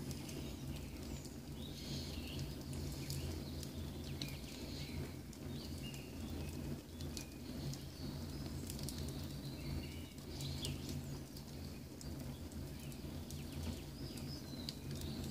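Wood fire burning in an outdoor masonry fireplace, crackling with scattered pops, over a steady low hum. Birds chirp in the background.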